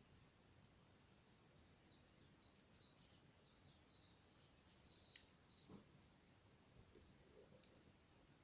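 Near silence: faint bird chirps, clustered from about two to five seconds in, with a few faint pops from the campfire scattered through.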